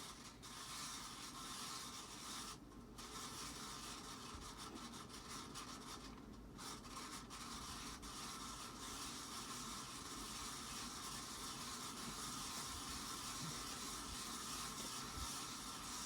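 Casablanca Panama ceiling fan running on its top speed with a steady scraping, grinding bearing noise that grows slightly louder. The noise comes from dry, rusty, unoiled bearings.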